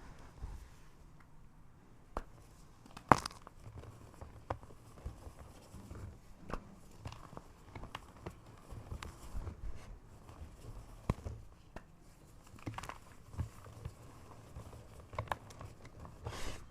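A block of gym chalk being crushed: sparse crisp crunches and crackles as the powdery chalk crumbles, with one sharp snap about three seconds in.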